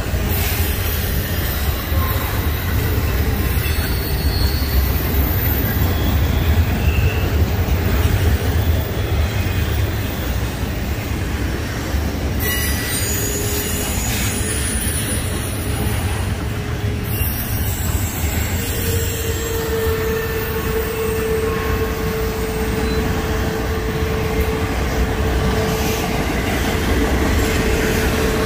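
Freight train cars rolling past: a steady, heavy rumble of steel wheels on rail, with a sustained wheel squeal setting in a little past the middle.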